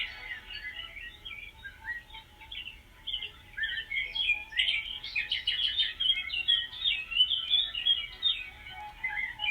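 Small songbirds chirping and twittering, many quick overlapping chirps and short warbled phrases, busiest from about four to eight seconds in.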